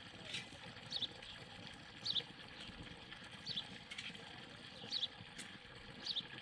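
A bird calling: a short, high chirp repeated about once a second, with faint background noise.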